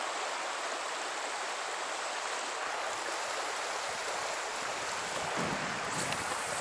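Flowing river water rushing steadily, the current high with snowmelt. A brief low rumble comes near the end.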